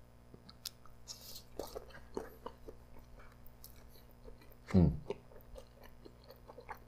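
Close-miked chewing of a teriyaki-glazed grilled chicken skewer: many small wet clicks and squelches of the mouth working the meat. About five seconds in, a short hummed "mm" breaks in.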